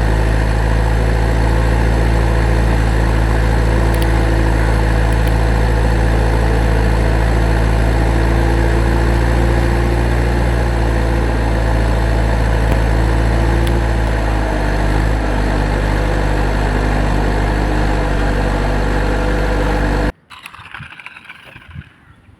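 An engine running steadily at idle with a deep, even hum; its note shifts slightly about two-thirds of the way through, and it cuts off abruptly near the end, leaving quieter, scattered sounds.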